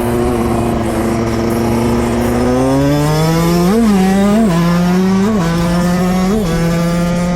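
Yamaha YZ125 single-cylinder two-stroke engine under way, holding a steady note and then revving up about three seconds in. It holds the higher note after that, with short sharp jumps in pitch about four times.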